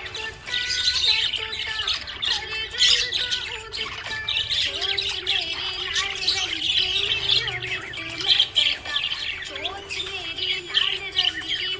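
Budgies chirping and squawking in many quick, overlapping calls.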